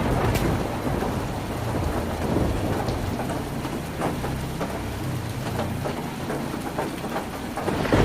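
Heavy rain drumming steadily on a tin roof, with a low rumble of thunder underneath that swells louder near the end.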